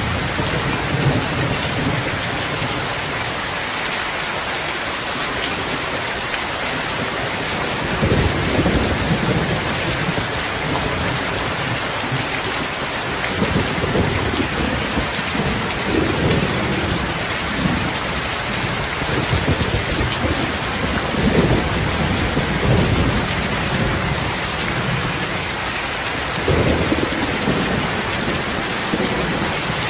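Steady heavy rain, with low rolling thunder rumbling in several surges through the middle and latter part.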